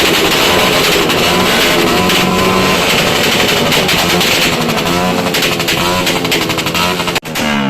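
Dense, continuous crackle of many firecrackers going off at once, with wavering pitched sounds over it; the sound cuts off briefly just before the end.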